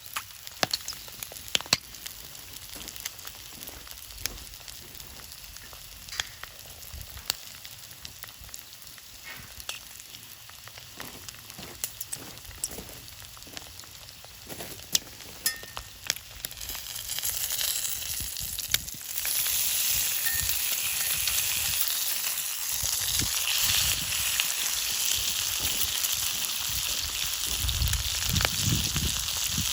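Thick-cut bacon and eggs frying in olive oil in a pan over a campfire: a steady sizzle with scattered sharp pops. The sizzle grows much louder and brighter a little over halfway through.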